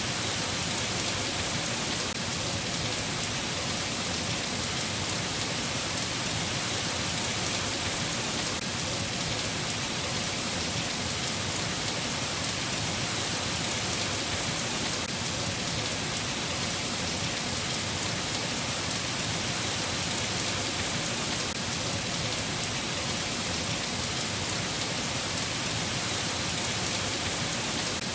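Steady, even rain falling, a constant hiss with no thunder.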